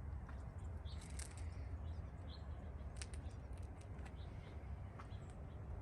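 Small birds chirping now and then, short high notes over a steady low rumble, with a few sharp ticks.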